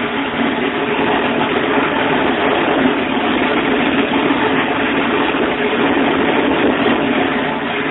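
Alfa Romeo GTV's newly built turbocharged V6 engine running steadily on its first startup, with no revving.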